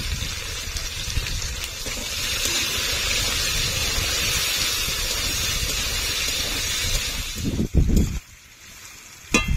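Taro pieces frying in hot oil in a pan: a steady sizzling hiss that stops abruptly about seven and a half seconds in, followed by a couple of knocks.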